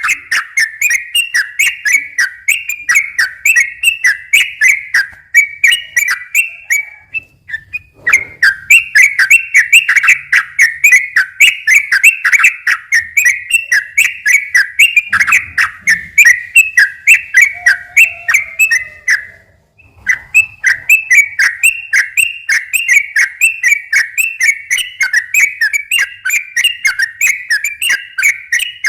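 Yellow-vented bulbul (trucukan) singing a long, fast run of repeated whistled notes, its rolling 'ropel' song, with two short pauses.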